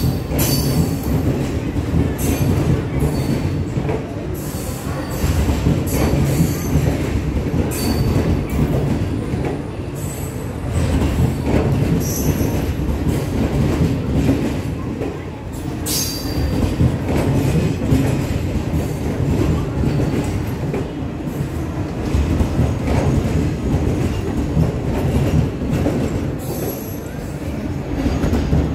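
Indian Railways passenger coaches of an arriving express rolling past. The wheels make a steady rumble on the rails, with clicks over the rail joints and brief high wheel squeals every few seconds.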